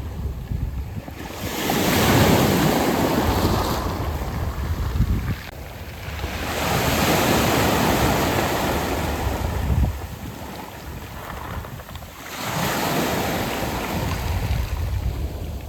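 Sea waves washing onto a beach of smooth round pebbles (mongdol). They come in three surges, each swelling and then drawing back.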